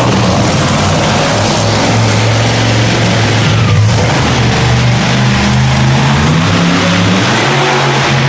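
Monster truck engine running loud and revving, its pitch shifting up and down a few times over a constant rushing noise.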